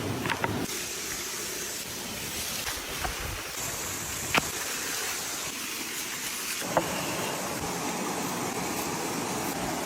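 Steady hissing noise broken by a few sharp pops and cracks, the loudest about halfway through, typical of an open wood fire. The background hiss shifts abruptly a few times.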